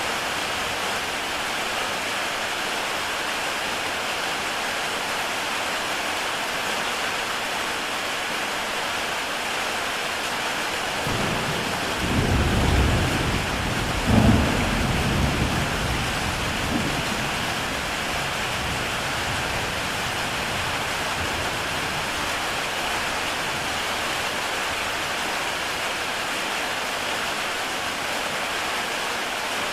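Heavy rain falling steadily on a tile roof. About midway a roll of thunder rumbles in, with a sharper crack in the middle of it, then fades back under the rain.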